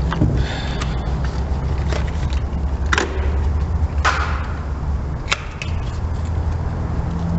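A few sharp, separate clicks and clinks of hand tools and parts being handled during spark plug work, over a steady low hum.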